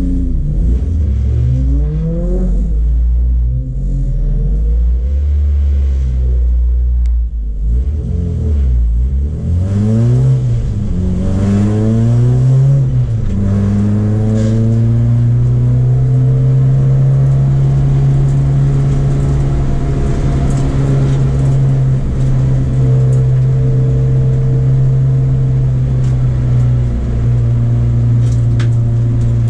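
Honda Civic's B18C 1.8-litre VTEC four-cylinder engine, heard from inside the cabin, revving up through the gears several times with gear changes between. From about halfway it holds a steady high note at speed, with a short dip near the end.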